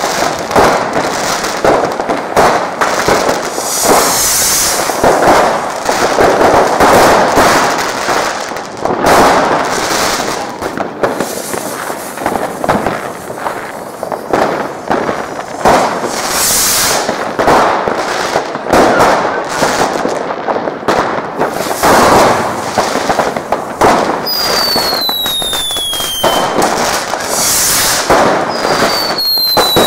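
Consumer fireworks going off densely and without pause: many overlapping bangs and crackling from firecrackers and rockets. Near the end, two whistles fall in pitch.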